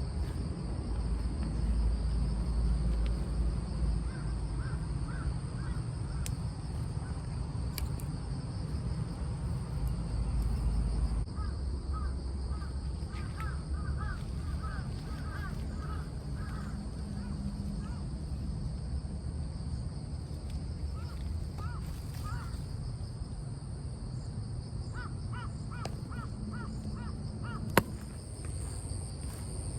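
Birds calling in several runs of short, quickly repeated notes, over a steady high insect buzz and a low rumble. A single sharp click near the end.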